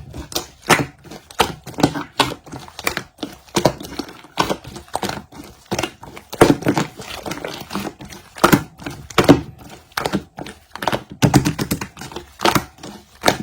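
An irregular run of sharp taps and thunks, several a second, some louder than others.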